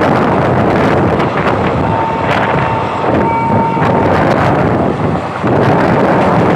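Passenger train running at speed, heard from on board: wind buffets the microphone over the steady rumble of the carriage, with faint clicks of the wheels. A thin, high, steady tone sounds for about two seconds near the middle.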